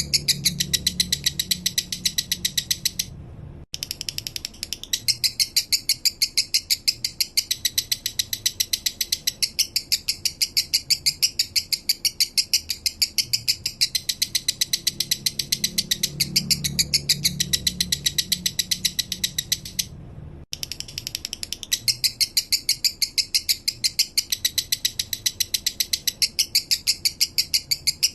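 Male lovebird singing a long, rapid chattering song: an even, fast stream of high chirps, broken by two short pauses, about three seconds in and near twenty seconds in.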